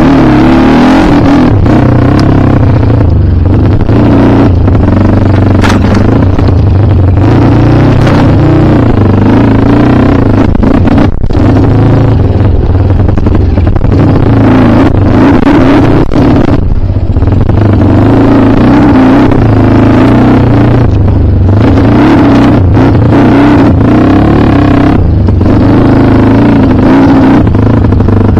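Kawasaki KLX dirt bike's single-cylinder four-stroke engine being ridden hard, very loud and close, its pitch rising and falling with the throttle and a few brief drops in the note.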